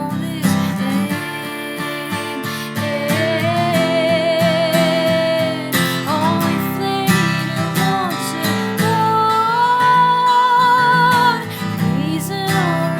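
Acoustic guitar strummed under a woman's singing, with long held notes sung with vibrato.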